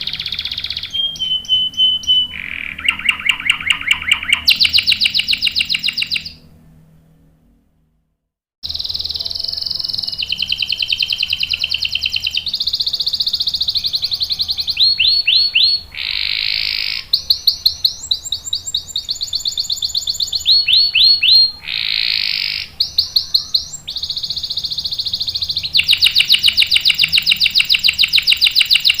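Domestic canary singing a long song of rapid trills and rolls, one phrase after another, each held for a second or two at a different pitch. The song fades out about six seconds in, stops for about two seconds, then starts again with more rolling trills.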